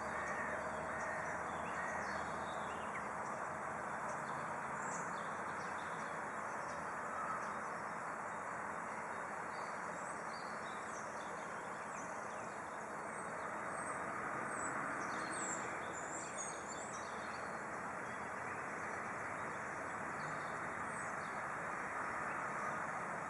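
Outdoor ambience: a steady rushing noise with scattered short, high bird chirps, thickest about two-thirds of the way through.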